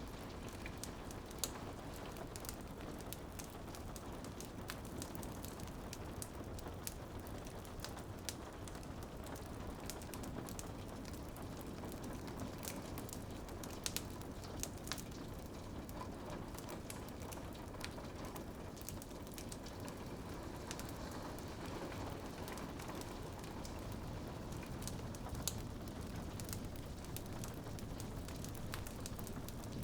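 Steady patter of rain on a window, with scattered sharp crackles and pops from a wood fire in a fireplace; a few pops stand out louder.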